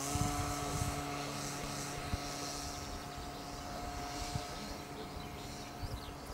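Electric motor and propeller of a radio-controlled Cessna 182 model plane running with a steady whine; the pitch steps up slightly right at the start and then holds.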